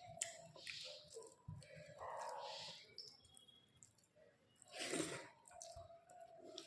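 Wet chewing and mouth sounds of a person eating a meal of rice and curries, in a few soft separate bursts: one near the start, one about two seconds in, and the loudest about five seconds in.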